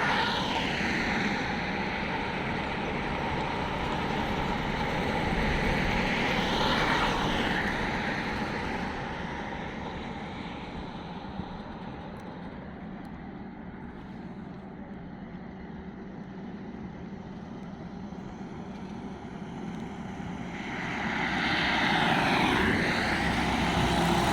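Vehicles going past: a steady rushing roar that swells and fades three times, near the start, about seven seconds in and near the end, and is quieter in between.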